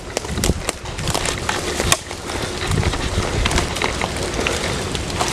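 Footsteps of rubber muck boots crunching through wet snow and brush, a run of irregular crunches and small clicks.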